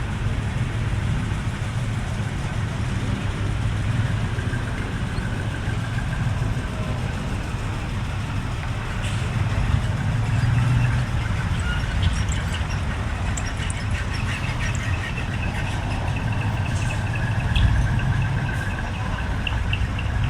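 Large truck engine running steadily at idle, a constant low rumble, with faint higher tones and small clicks from about halfway through.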